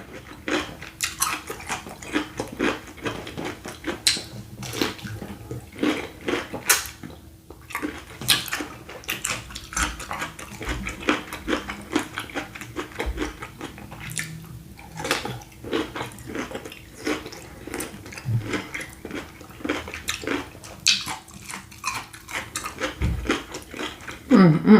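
A person eating a saucy seafood boil of prawns and sausage close to the microphone: a steady run of quick wet smacks, clicks and chewing sounds. A faint steady hum lies underneath.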